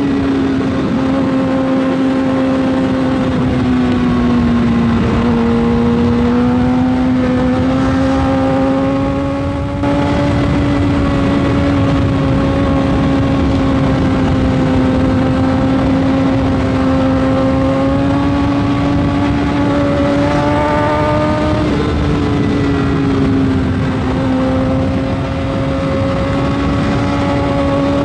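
2009 Suzuki GSX-R 600's inline-four engine running steadily at high revs while being ridden at highway speed. Its pitch sags and recovers a couple of times, and there is a brief dip in level about ten seconds in.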